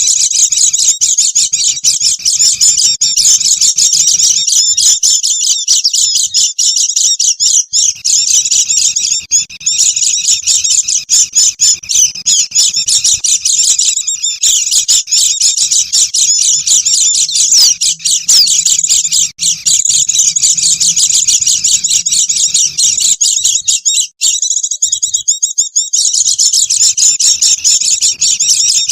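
A flock of white-eyes (pleci) chattering nonstop, a dense mass of rapid, high-pitched twittering calls as used to lure wild birds.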